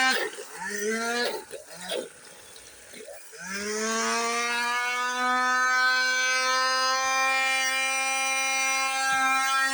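Handheld vacuum cleaner's motor whining, cutting in and out a few times, then spinning up about three and a half seconds in and running steadily as it tries to suck up liquid. It stops abruptly at the end.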